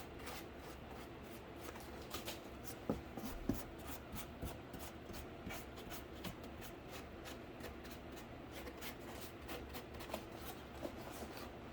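Paint being worked onto a cardboard PC case: a run of short, irregular scratchy strokes, rather like writing, over a steady low room hum.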